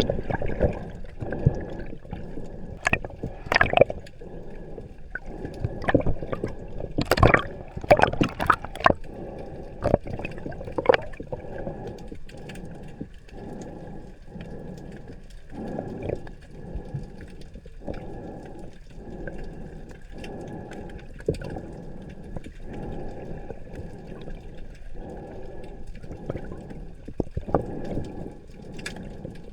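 Underwater ambience from the camera: gurgling, bubbling water noise that pulses roughly once a second, with a handful of sharp clicks in the first third.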